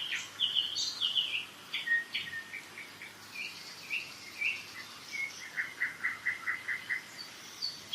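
Several songbirds singing in spring woodland: varied short chirps and whistles, with a quick trill of about five repeated notes a second from about five and a half seconds in.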